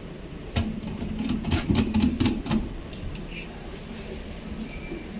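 A quick run of knocks and clatter lasting about two seconds, then light, high tinkling and small clicks, as hard parts and tools are handled during the kitchen fit-out.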